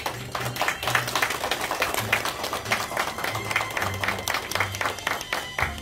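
Audience applauding steadily over background music with a low bass line; the clapping stops just before the end.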